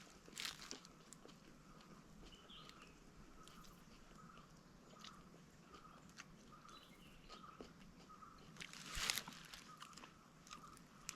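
Someone eating with faint crunching bites and chewing, the two clearest crunches about half a second in and about nine seconds in. Behind it a faint short chirp repeats about twice a second, from a bird or insect.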